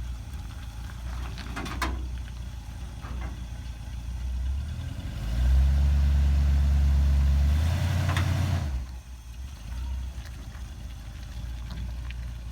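Large truck's engine idling. Its speed and loudness rise to a higher steady level for about three seconds in the middle, then fall back to idle. There is a single knock about two seconds in.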